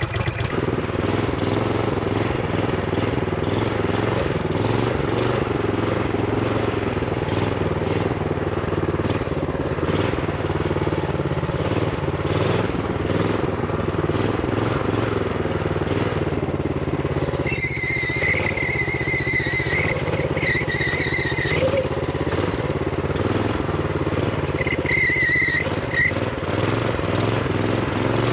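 Minibike's Honda GX390 single-cylinder engine running steadily under way, held to limited revs by its throttle stop screw. A high squeal cuts in twice after the middle, each time for a few seconds.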